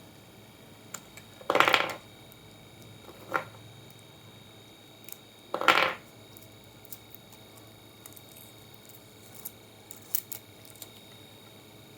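Handling noises of tools and small parts on a workbench: scattered light clicks and clinks, with two louder, short rattling scrapes about a second and a half in and again near six seconds in.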